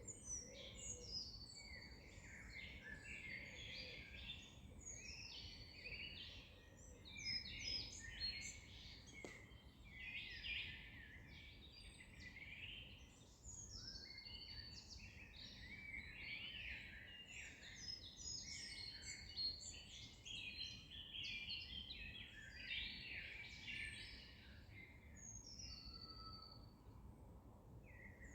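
Several songbirds singing at once, dense overlapping chirps and warbled phrases with no pause, over a faint steady background hiss.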